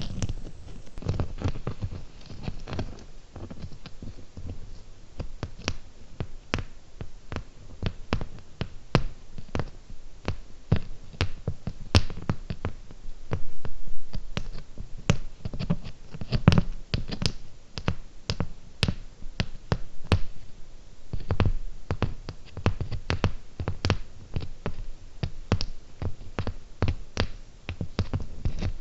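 Fingernails tapping on cubic zirconia gems: sharp, uneven clicks, several a second, with a soft thud under some strikes.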